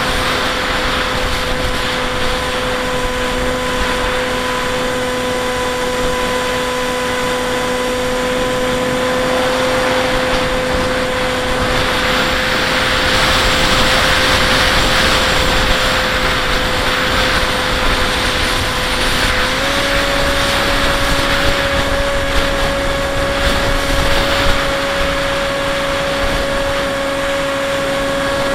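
Bixler 1.1 RC plane's electric motor and pusher propeller running at steady throttle, a held whine over rushing wind noise. The wind rush swells partway through, and the motor pitch steps up slightly about twenty seconds in.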